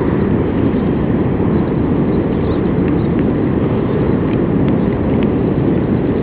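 Heavy surf from a typhoon swell breaking on a sandy beach: a loud, steady, unbroken rush of waves, deepest in the low range.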